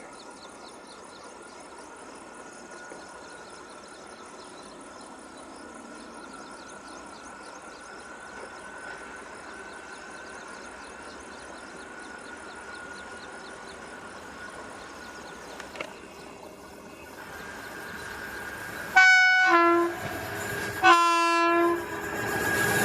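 Indian Railways WAP-4 electric locomotive sounding its horn in two short blasts about two seconds apart near the end, after a long stretch of faint background. The approaching train's running noise starts to rise as the second blast ends.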